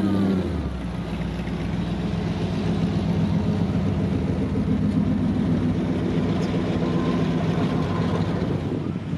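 A vehicle's engine running with a loud, rough low rumble.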